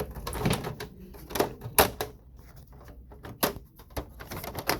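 Clicks and knocks of plastic parts of an HP Z1 all-in-one workstation being handled during disassembly: several sharp taps at uneven intervals, the loudest just under two seconds in.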